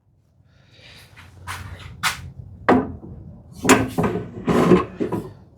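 A run of short scrapes and light knocks from wooden workpieces and marking tools being handled on the bench, the loudest near the middle and again near the end.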